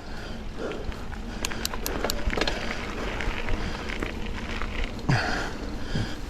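Mountain bike climbing a hill on a dirt double track: tyres rumbling and crackling over the ground, with a quick run of sharp clicks about a second and a half in. The rider breathes hard in a steady rhythm with the effort of the climb.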